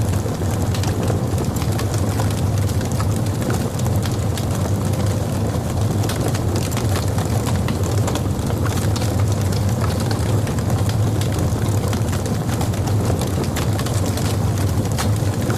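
Wood logs burning in a fireplace: a steady low rumble of the fire with frequent small crackles and pops throughout.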